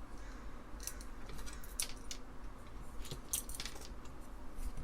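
Small metal screws clinking and tapping as they are handled and set down, an irregular scatter of light metallic clicks.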